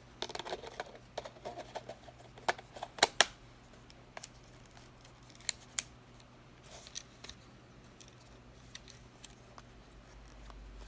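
Minolta X-7 35 mm film SLR being worked by hand: a run of small mechanical clicks and snaps from its controls and shutter. The two loudest come close together about three seconds in, and another pair follows about two and a half seconds later.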